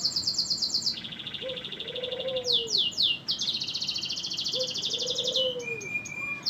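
Domestic canary in full song: runs of quick falling notes and long, fast trills and rolls, changing from one phrase to the next. A low, arching note sounds twice beneath the song.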